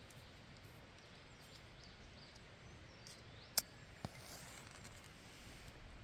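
Faint outdoor background noise with a few short, high bird chirps, broken by two sharp snaps about three and a half and four seconds in.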